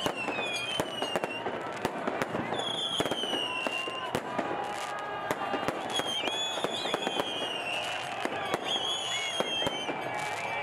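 Fireworks and firecrackers going off over and over, sharp bangs and crackles, mixed with long shrill whistles and the voices of a large crowd.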